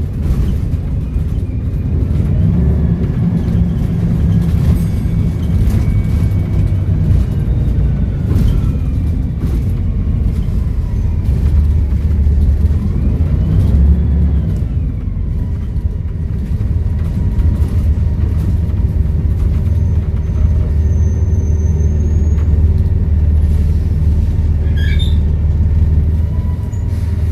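Volvo B7RLE bus's six-cylinder diesel engine running with a steady low rumble as the bus drives. A faint turbo whistle rises and falls about halfway through.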